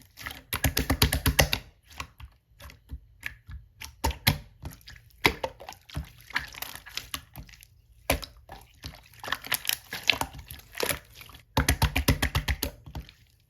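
Clear slime being squished and poked by hand, making wet clicks and pops. There are quick runs of about ten clicks a second, once shortly after the start and again near the end, with scattered single clicks in between.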